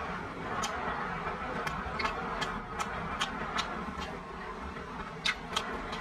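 Close-miked chewing of crispy grilled pork intestine: sharp, wet mouth clicks and crunches at irregular intervals, about one or two a second, with a quick pair near the end, over a steady low background hiss.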